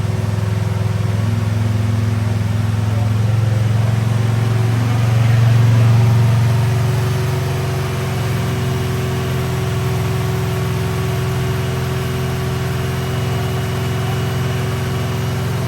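Freshly built engine running steadily at speed during its camshaft break-in. It gets a little louder about five seconds in, then settles slightly lower.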